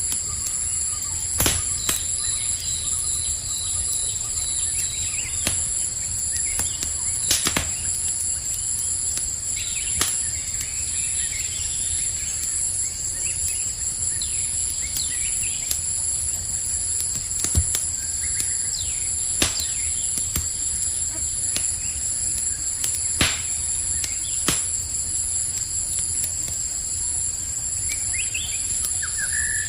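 Campfire crackling with sharp pops every second or two, over the steady high trilling of crickets; a few bird chirps come in near the end.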